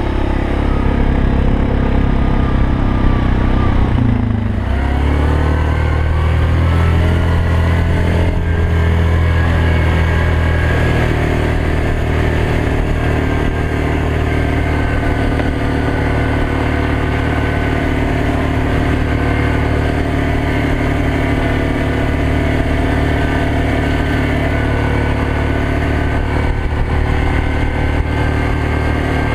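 ATV engine running while riding. Its pitch drops sharply about four seconds in as it slows, then it runs steadily at a lower, even pitch.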